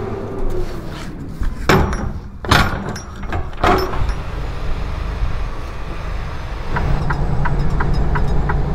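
Three loud knocks or bangs of a semi-truck's doors or gear being handled in the first few seconds, then the truck's engine running louder with an even ticking about twice a second.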